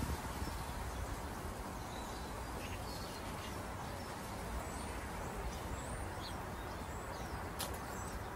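Outdoor background noise, steady and low, with birds chirping briefly here and there and a single sharp click near the end.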